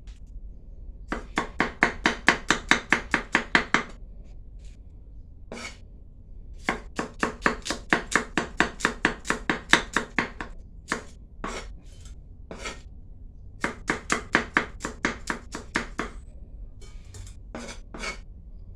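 Knife chopping rapidly on a cutting board, at about six strokes a second, in three runs of a few seconds each with single knocks in between, while ingredients are prepared for a Thai shrimp salad.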